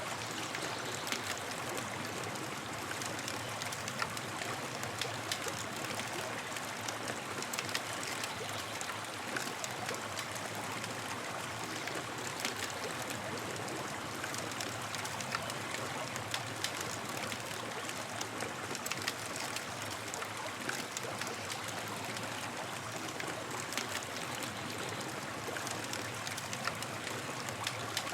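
Campfire burning with a steady hiss and frequent small crackles and pops.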